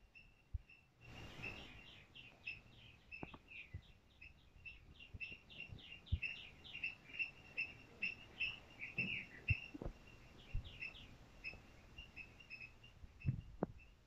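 Birds chirping: short high chirps repeating a few times a second, with a quicker flurry of descending notes in the middle. A brief hiss about a second in and a few soft low thumps.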